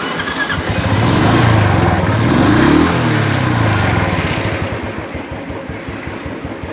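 Royal Enfield Bullet's single-cylinder engine revved once, the pitch climbing to a peak about three seconds in and dropping back. It then idles with a steady low thump.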